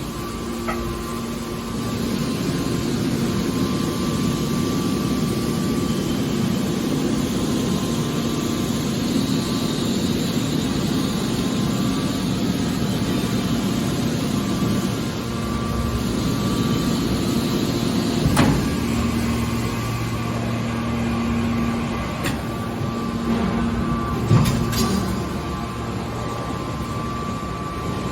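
Hydraulic metal baler running: a steady machine hum with a held tone, broken by two sharp knocks, one about eighteen seconds in and another about six seconds later.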